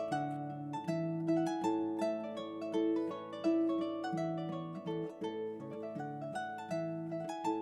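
Background music: a harp playing a quick melody of plucked notes over a steady lower accompaniment.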